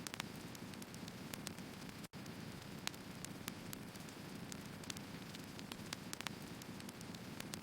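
Wood fire burning: a steady low rush with irregular sharp crackles and pops from the burning logs. The sound drops out completely for an instant about two seconds in.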